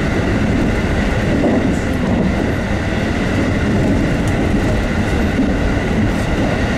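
JR West 221 series electric train running at speed, heard from inside the car: a loud, steady rumble with a steady high whine over it.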